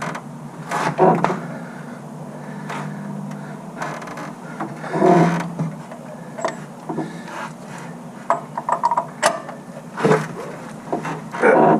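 Hand tools working the crank bolt that presses the harmonic balancer onto the crankshaft of a Ford 302 V8: scattered metal clicks and clunks at uneven intervals.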